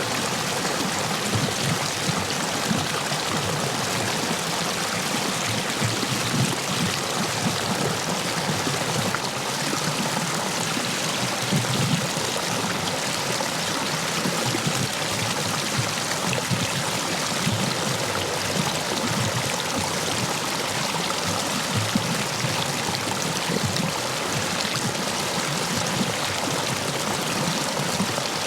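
Stream water rushing over and between stepping stones: a steady, full rush of water, the stream running high after heavy rain.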